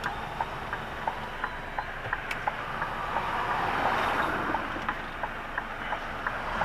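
Steady ticking of a Scania truck's indicator relay in the cab, about three clicks a second, over a rushing noise from the idling truck that swells a little midway.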